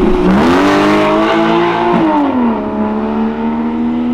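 Porsche Cayman S flat-six engine accelerating past. Its revs climb early on, hold for about a second and a half, then drop and settle at a steady lower pitch.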